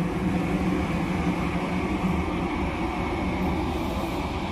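Electric commuter train moving along the far track past the platform: a steady running noise with a low hum.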